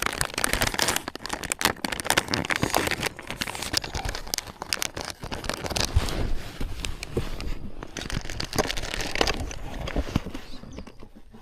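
Plastic bait packaging crinkling and rustling in the hands, with irregular crackles, as a soft-plastic trailer is taken out for a chatterbait.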